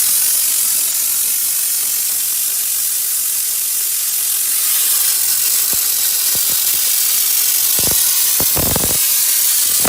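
Steam jetting from an LPG steam car washer's steam gun at about 10 bar pressure, a steady loud hiss. A few dull knocks come in the second half, bunching near the end.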